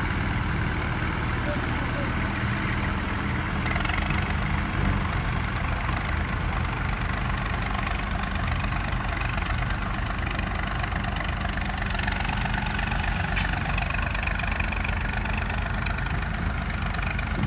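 Heavy vehicle engine idling steadily, with a brief hiss about four seconds in and a sharp click near the end.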